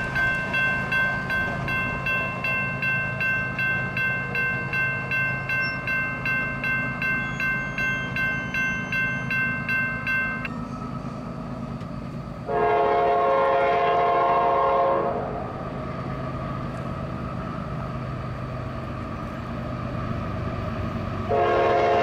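Railroad crossing bell ringing steadily at about two to three strokes a second over the low rumble of a passing freight train; it stops abruptly about ten seconds in. Then a CSX freight locomotive's air horn sounds a chord for about two and a half seconds near the middle, and again just before the end, over the steady diesel rumble of the approaching stack train.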